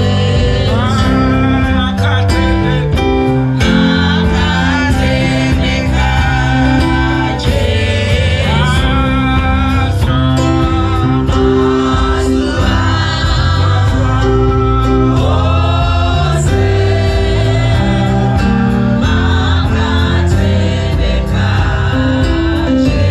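Gospel music: a choir singing over instruments with a steady bass line.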